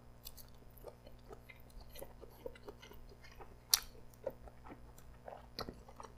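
Close-miked chewing of a grilled, hot-teriyaki-glazed Korean chicken skewer (dakkochi): a run of small mouth clicks, with a sharper click about three and a half seconds in.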